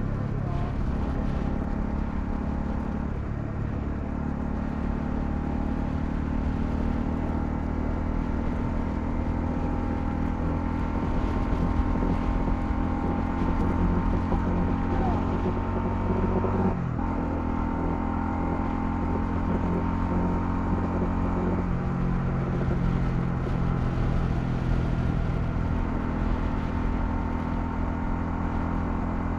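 Honda CL250 motorcycle engine running under way with a steady note. About two-thirds of the way in the note breaks briefly and settles at a new pitch, then steps again a little later.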